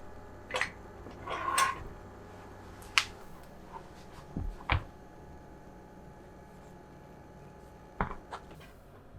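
Kitchen utensils and items being handled: a few light clicks and knocks, a brief rubbing sound about a second in, and a couple of low thumps about four and a half seconds in.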